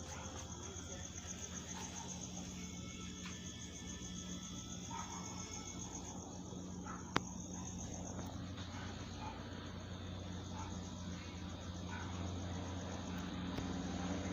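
Crickets chirping steadily in a fast, even trill, over a low steady hum that grows a little louder near the end. A single sharp click about seven seconds in.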